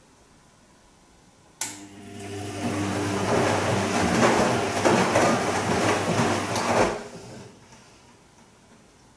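Bosch Serie 2 VarioPerfect washing machine on its gentle Silk wash: the drum motor starts with a click about a second and a half in. The drum turns for about five seconds, with a motor hum and water and laundry sloshing, then stops and falls quiet again.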